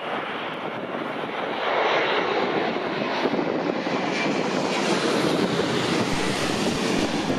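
Jet engine noise from an ANA Boeing 787-9's Rolls-Royce Trent 1000 turbofans, a steady rushing sound that grows louder about two seconds in, with the high hiss building further in the second half.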